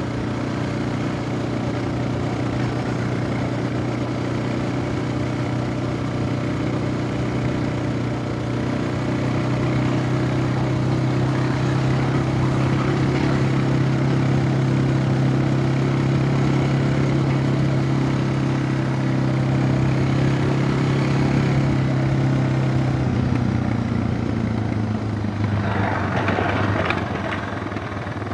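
Suzuki DR650 single-cylinder engine running at a steady pitch; near the end its pitch drops and a rougher, hissing noise takes over.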